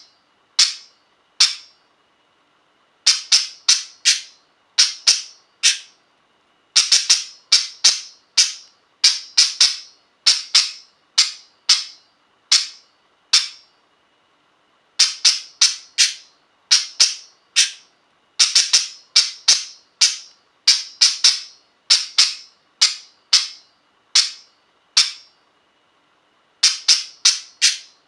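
Budgerigar making a short, sharp, high sound over and over, about one or two a second, in runs of several with pauses of a second or two between; the bird makes it to signal that it wants something.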